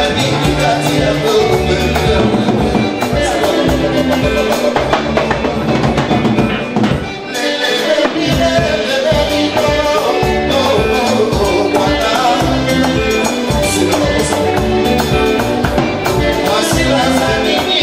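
Live band music with a steady beat and bass; the bass drops out for about a second about seven seconds in, then comes back.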